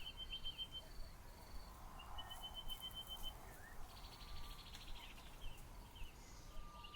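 Faint bushveld birdsong: a small bird gives a rapid, high trill of evenly spaced notes twice, with a buzzing insect-like sound between about four and five seconds in.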